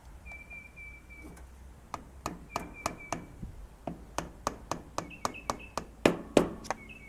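The flywheel key of a small lawn mower engine being tapped down into its keyway: a series of light metal taps, about three a second, starting about two seconds in. A bird chirps repeatedly in the background.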